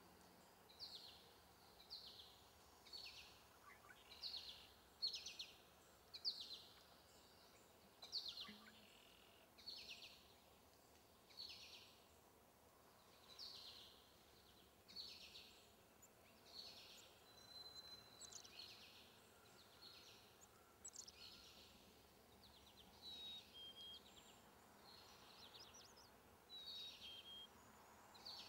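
A small bird chirping over and over, short high chirps falling in pitch, about one to two a second, with a few brief thin whistles mixed in during the second half, over faint outdoor background.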